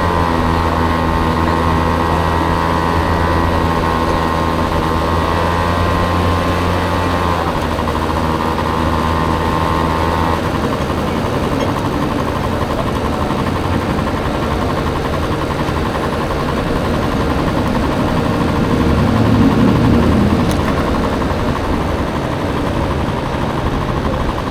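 Honda Dio scooter engine in a Motocompo running at a steady speed, its note holding for about ten seconds before the throttle eases off. The rest is a rougher engine and road sound with a brief swell near the end.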